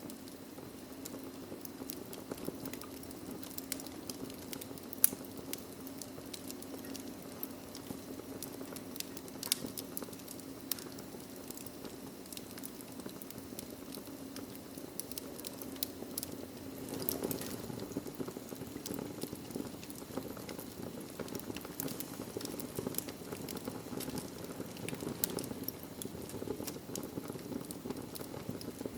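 Wood fire burning in a fireplace: a steady low rush of flames with irregular sharp crackles and pops throughout, a louder pop about five seconds in.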